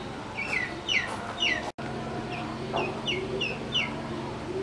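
Birds chirping: a run of short, high notes, each falling in pitch, several a second. The sound cuts out for an instant about two seconds in, and a faint steady hum is heard after the break.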